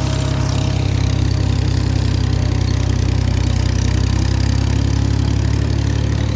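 Farm tractor engine running steadily with a deep, even hum as it pulls a V hay rake through the field.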